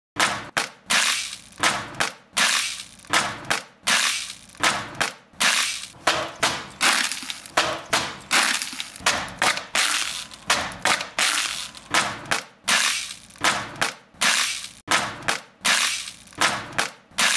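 A rhythmic run of sharp crunching, smashing hits, about two a second, each dying away quickly, starting suddenly out of silence.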